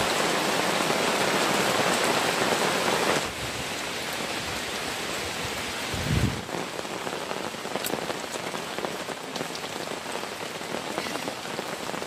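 Heavy rain pouring down as a dense, steady hiss, loudest for the first three seconds and then a little softer. A single low thump comes about halfway through.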